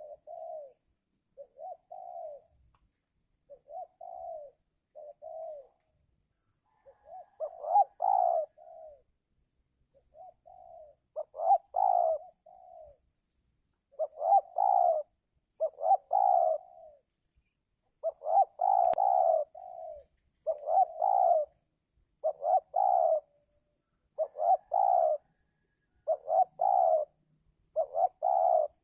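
Spotted doves cooing in a run of short repeated phrases, quieter at first and louder from about a quarter of the way in. Faint high chirps of small birds come and go.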